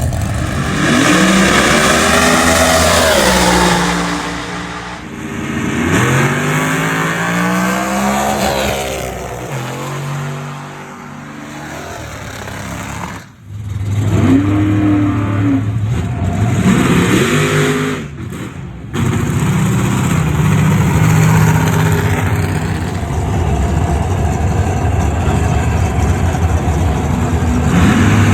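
Street-car drag racing engines revving hard, their pitch climbing and falling again several times. The sound cuts off abruptly twice partway through.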